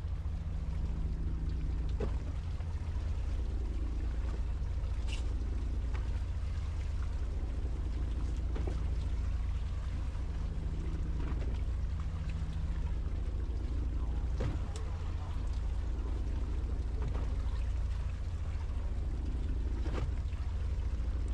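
Fishing boat's engine running with a steady low drone, with scattered sharp ticks and taps over it.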